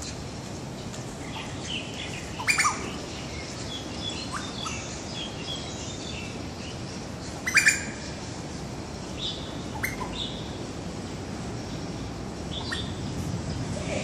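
Black birds chirping and tweeting: scattered short chirps with two loud sharp calls, about two and a half and seven and a half seconds in, and softer ones later. The uploader takes the calling for a male courting his mate.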